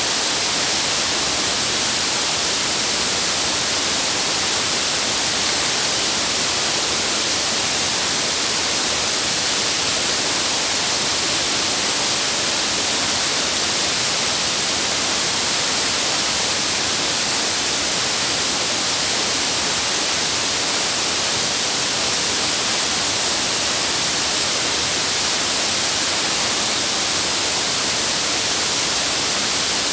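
Waterfall's water falling in a steady, unbroken rush with a bright hiss.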